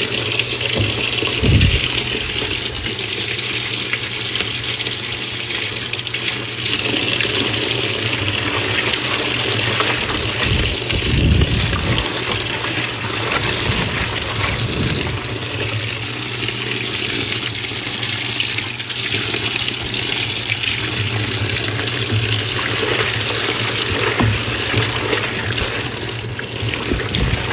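Water rushing and sloshing in a washing machine as it fills, over a steady low hum, with a couple of low thumps.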